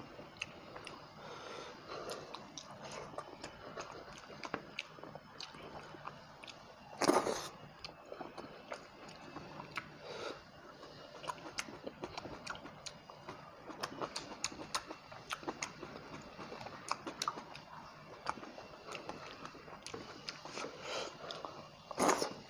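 A person chewing a mouthful of fish and rice close to the microphone, with many small wet mouth clicks and smacks. Two louder bursts, about 7 seconds in and again near the end, stand out from the chewing.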